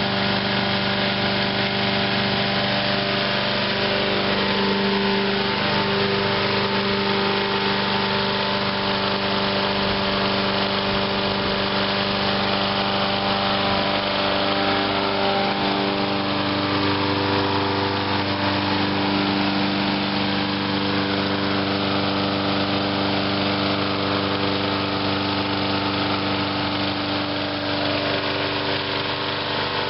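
Briggs & Stratton small engine on a walk-behind lawn mower running unattended on the last of its fuel, being run dry before winter storage. It runs steadily, with slight wavers in pitch, and is starting to hesitate as the tank empties.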